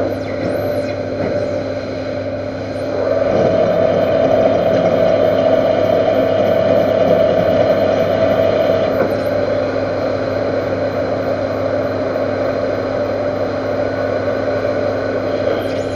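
Metal lathe running steadily with a constant hum and whine. It gets louder from about three seconds in and eases back a little after about nine seconds.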